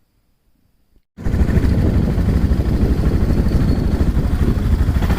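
Near silence, then about a second in an abrupt switch to the loud, steady rumble of riding on a motorcycle: engine and wind noise on the microphone.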